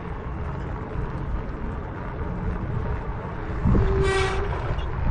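Mountain bike front disc brake giving a short, loud, pitched squeal about four seconds in, over steady wind and tyre rolling noise. The rider puts it down to loose front hub bearings letting the rotor drift against the pads.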